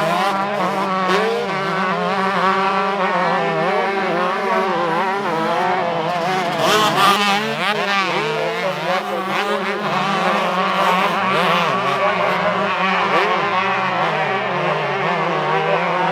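Several motocross bikes racing, their engines revving up and down together as they ride the track and pass.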